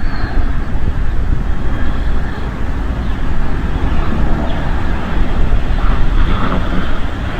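Strong wind buffeting the nest camera's outdoor microphone: a loud, gusting low rumble that swells and eases.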